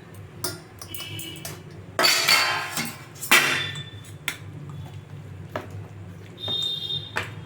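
Metal kitchen utensils clinking and clattering against each other. There are two louder clatters a couple of seconds in, and a ringing clink near the end.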